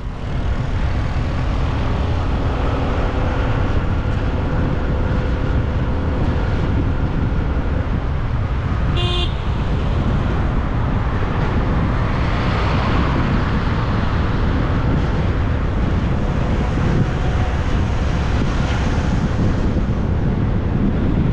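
Steady road and traffic noise of a motorbike ride. A vehicle horn gives one short toot about nine seconds in.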